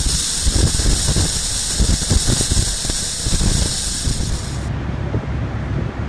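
Wind buffeting the microphone of a moving motorcycle, with a low road and engine rumble underneath. A steady high hiss over it cuts off suddenly near the end.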